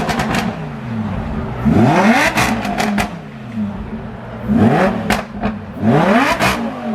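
Car engine revved three times in quick blips, the pitch climbing steeply and then falling back to idle each time, with sharp crackles at the top of each rev.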